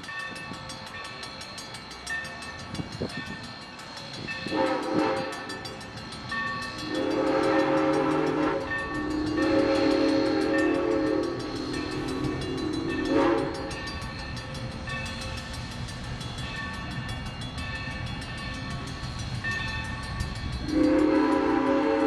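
Steam locomotive's chime whistle blowing several blasts over the running train. There is a short toot about five seconds in, then two long blasts, a short one about thirteen seconds in, and another long blast starting near the end.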